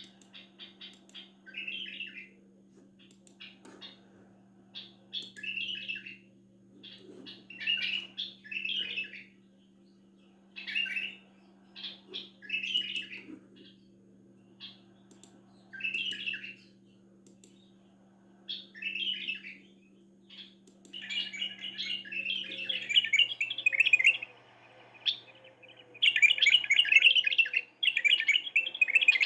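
A bulbul and a canary singing: short song phrases repeated every second or two, then, from about two-thirds of the way through, long fast warbling trills. A faint steady hum runs underneath.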